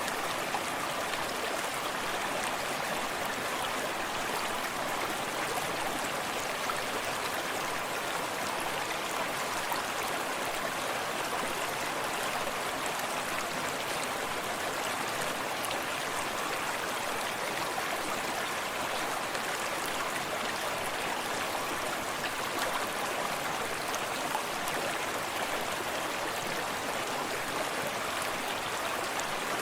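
Forest stream running steadily, water flowing and splashing over stones with an even rushing sound.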